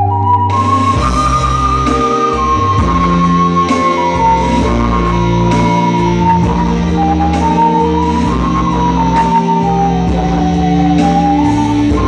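Ocarina playing a slow, stepwise melody with a pure, flute-like tone over a backing track of guitar and drums, the full band coming in about half a second in.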